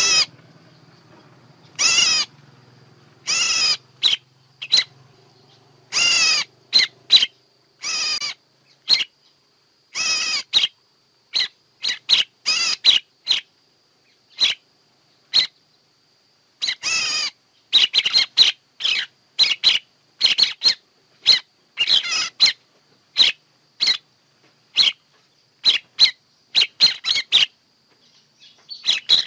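Songbird calling: a run of short, sharp chirps and calls at irregular intervals, growing quicker and denser in the second half, used as a bird-trapping lure. A faint steady high tone runs underneath.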